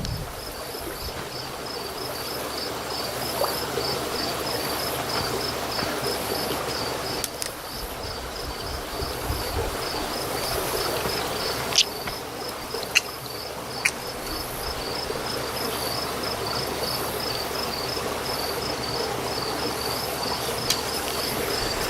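Insect chirping steadily, a high chirp about three times a second, with a few sharp clicks near the middle.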